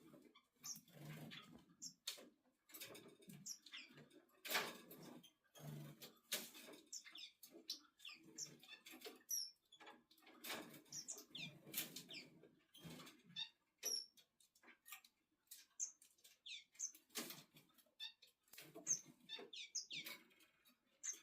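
Faint, irregular rustling and brushing of fingers stroking a male red-billed firefinch's feathers, with many tiny high squeaks or chirps scattered through it.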